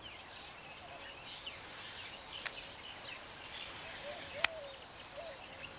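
Outdoor bush ambience: an insect repeats a high chirp about every two-thirds of a second, with scattered faint bird chirps and one sharp click about four and a half seconds in.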